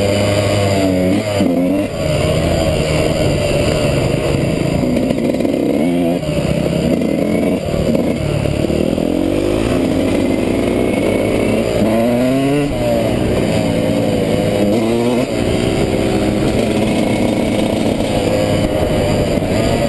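Dirt bike engine revving up and down again and again, its pitch rising in quick sweeps as it accelerates and dropping back between them.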